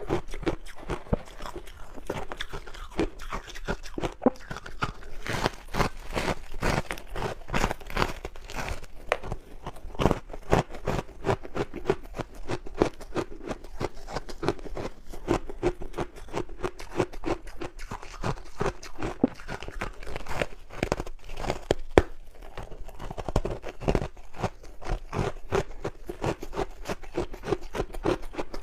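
Crunchy ice dusted with matcha powder being bitten and chewed close to the microphone: a dense, irregular run of sharp crunches that goes on without a break.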